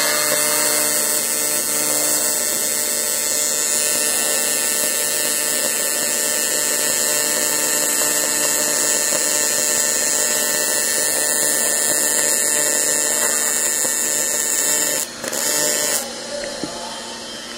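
Welding arc on thin A5052 aluminium sheet, a steady humming buzz during an airtight seam weld. It breaks off about 15 seconds in, sparks again for under a second, then stops.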